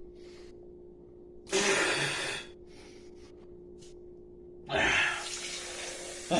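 A person breathing hard through the burn of a ghost-pepper-sauced habanero, with two loud, hissing breaths, one about a second and a half in and one near the end. A low steady hum sits underneath.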